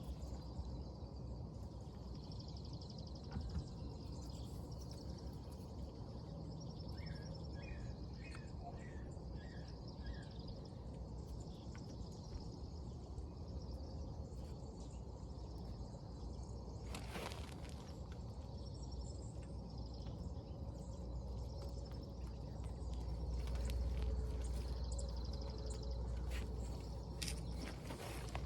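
Outdoor ambience dominated by the steady buzz of insects, with a brief run of bird chirps and a steady low rumble underneath. A couple of sharp clicks or knocks come from the brake work, one about halfway through and one near the end.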